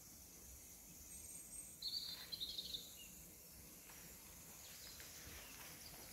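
Quiet outdoor garden ambience with a faint steady high hiss; a bird chirps briefly about two seconds in.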